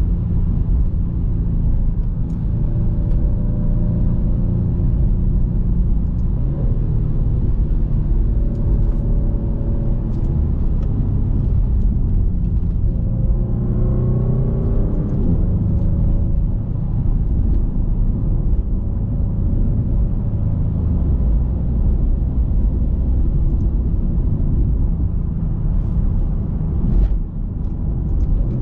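Maserati GranTurismo Modena's twin-turbo 3.0-litre Nettuno V6 running under way, a steady low engine drone over road rumble. About fourteen seconds in the engine note rises briefly as the revs climb, then drops back and settles.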